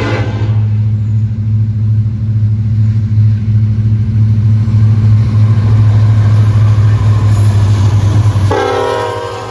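Union Pacific SD70ACe diesel locomotive passing at speed: its horn cuts off shortly after the start, leaving a heavy steady drone that grows louder. About eight and a half seconds in the horn sounds again at a lower pitch and the drone falls away as the locomotive goes by.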